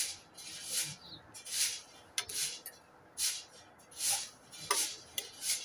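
Close-up mouth noises of eating: chewing and lip smacking in a steady rhythm, a short wet smack about every two-thirds of a second.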